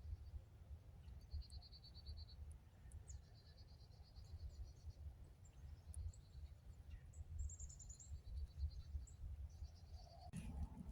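Faint night insects, such as crickets or katydids, calling in short trills of rapid pulses at a few different pitches, repeating every second or two over a low rumble. A sudden noise comes in near the end.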